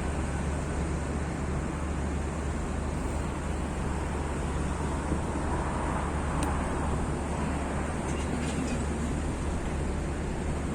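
Diesel locomotive engine running steadily, a low drone, with one sharp click about six and a half seconds in.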